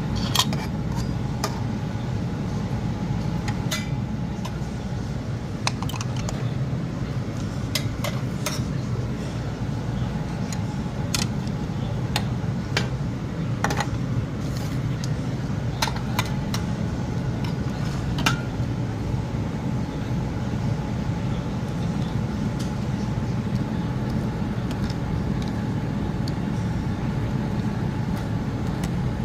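A steady low engine hum, as from an idling truck, with scattered light clinks of dishes and utensils.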